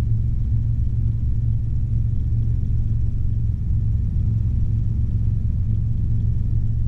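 Robinson R22 helicopter in cruise flight: a steady, deep rumble of engine and rotors with no change in level.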